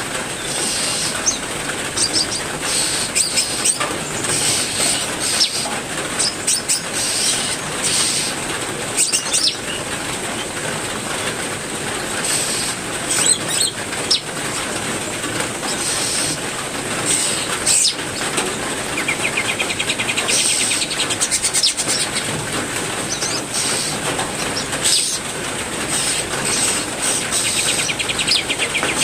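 Steady rain hiss with captive songbirds chirping and calling over it, including a rapid trill about 19 to 22 seconds in.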